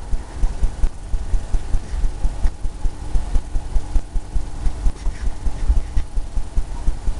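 Quick, irregular low thumps, about five or six a second, from a paintbrush dabbing and scrubbing on a stretched canvas, carried through the easel. A faint steady hum runs underneath.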